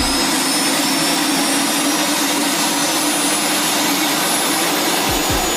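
MTT Y2K superbike's Rolls-Royce turboshaft engine running steadily, a loud jet-like rush with a thin high whine that creeps slightly upward.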